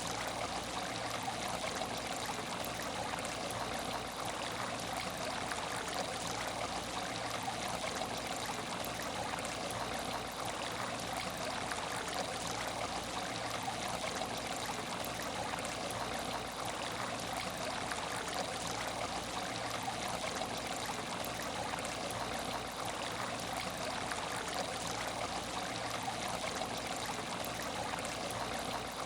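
Aquarium tank water running and trickling steadily, with a faint low hum underneath.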